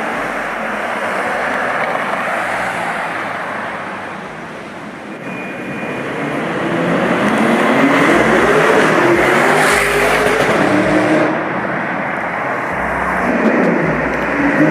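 Street traffic noise, then a car engine accelerating past, its pitch climbing in a few steps about halfway through and again near the end.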